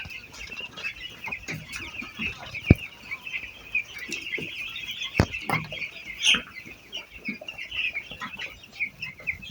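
A flock of two-week-old chicks peeping continuously, many short high cheeps overlapping, with a few sharp knocks here and there.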